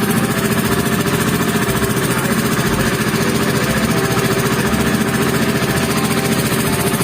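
Boat engine running steadily at a constant speed, loud and close, with a fast even pulsing.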